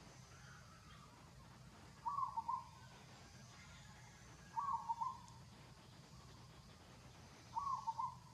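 A bird's short hooting call, heard three times a few seconds apart, each call a quick run of two or three notes on about the same pitch, over a faint steady low hum.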